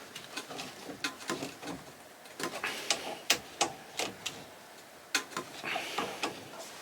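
Irregular small clicks and knocks of a hand tool working the mounting bolts of a new ignition coil on a small engine, in short clusters with pauses between.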